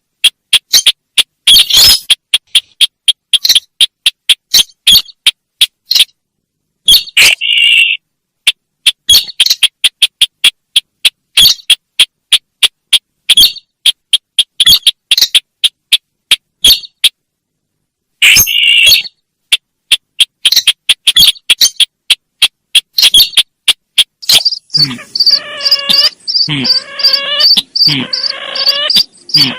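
Recorded lure call for the sintar bird: rapid, sharp, loud chirps and ticks in irregular bursts. About 25 seconds in, a buzzing, pulsing call starts over a steady high whine.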